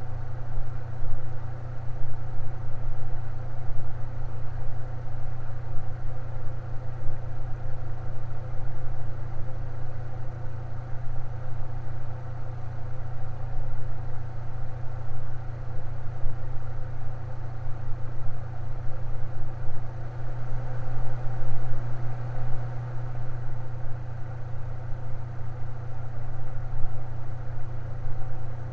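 Electric fan running steadily with a low motor hum and a soft rush of air.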